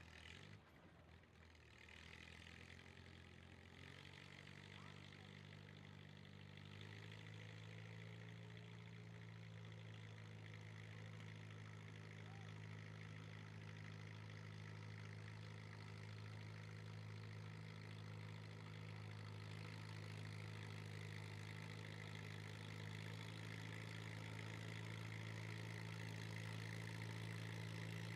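A vehicle engine idling steadily. Its pitch steps up slightly a few seconds in, and it grows gradually louder.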